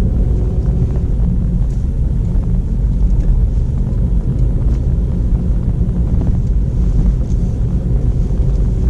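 Steady low rumble of a petrol car being driven, heard from inside the cabin: engine and road noise.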